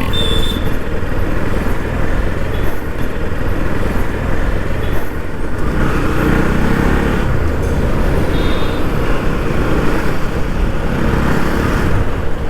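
Motorcycle riding noise on a road: steady wind rush on the microphone mixed with engine and traffic sound, swelling louder for about a second and a half some six seconds in. Two brief high beeps can be heard, one just after the start and one near eight and a half seconds.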